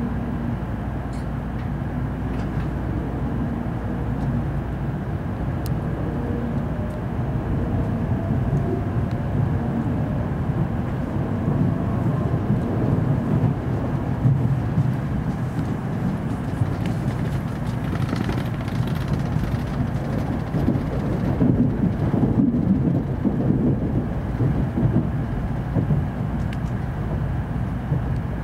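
Cabin noise of an N700 series Shinkansen under way: a steady low rumble from the running gear, with a faint rising motor whine as the train picks up speed, growing louder after about eight seconds.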